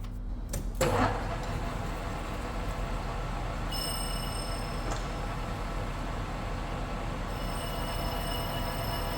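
Lathe cutting the outside diameter of a steel drive plate: a steady cutting noise that starts with a brief louder hit, with a high-pitched squeal coming in about four seconds in and again near the end. This is typical of the carbide insert cutting through a hard spot around the diameter that is chewing up inserts.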